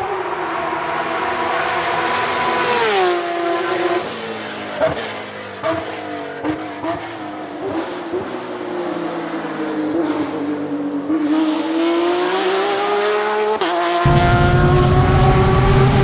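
Nissan 370Z's 3.7-litre V6 accelerating: the engine note climbs, drops sharply at a gear change about three seconds in, then climbs again before another sudden change near the end. A few sharp knocks sound early on, and a loud low rumble comes in suddenly near the end.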